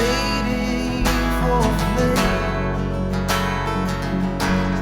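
Live band playing a pop-rock song, led by strummed acoustic guitar over steady bass. A singer's voice glides through a held note in the first two seconds.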